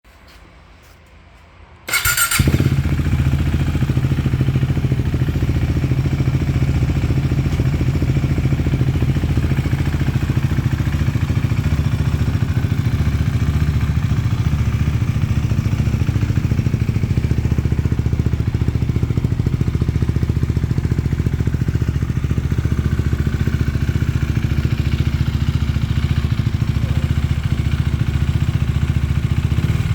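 KTM Duke motorcycle engine starting about two seconds in, then idling steadily with a low rumble.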